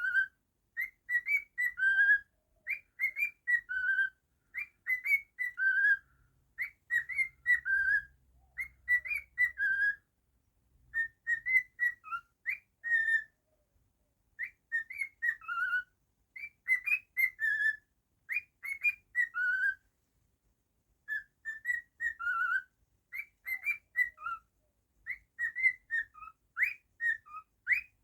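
Cockatiel whistling a tune: short, clear phrases of quick rising and falling notes, repeated again and again with brief pauses between them.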